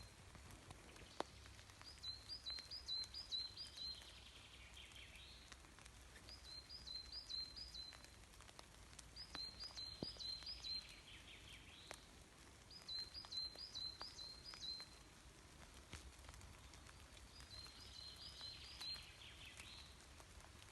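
A songbird singing the same short song five times, about every four seconds: a quick run of high repeated notes dropping into a lower trill, against a faint low rumble.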